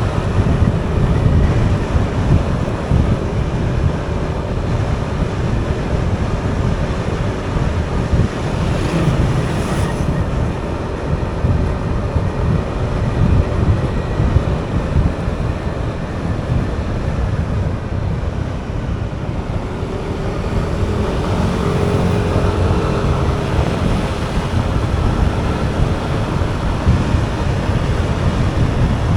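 Wind buffeting the microphone of a moving motorcycle, a steady heavy rumble with the bike's engine and road noise beneath it. A faint engine tone comes through about two-thirds of the way in.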